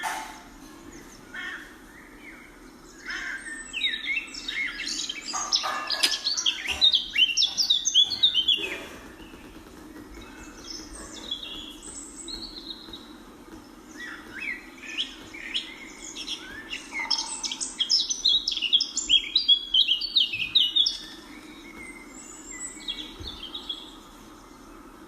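Birds chirping and calling in two busy spells of rapid, overlapping chirps, one about three seconds in lasting some six seconds and another starting about fourteen seconds in, with a steady low hum underneath.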